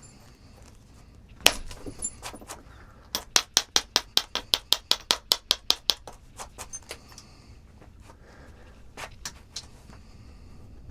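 Sharp stone-on-stone clicks of a striker tapping on a piece of knapping stone, chipping off its chalky rind. One hard strike, then a quick run of about twenty light taps at roughly seven a second, then a few scattered taps.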